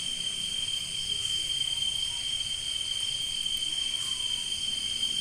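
Chorus of crickets trilling steadily in one continuous high-pitched tone, with fainter higher trills layered above it.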